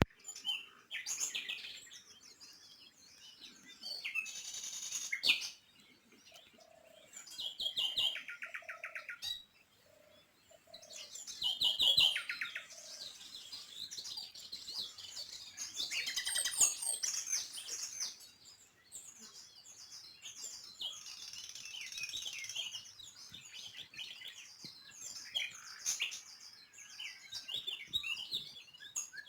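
Small songbirds chirping and twittering, with many short calls overlapping and a fast, evenly pulsed trill about eight seconds in.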